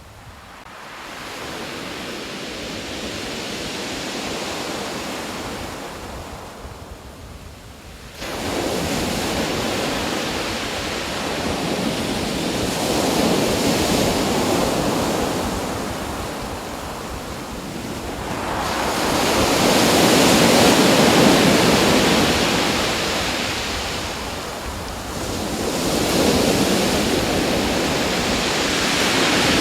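Ocean surf: waves washing in and drawing back, the noise swelling and fading in a slow cycle every several seconds, with a sudden louder surge about a quarter of the way in.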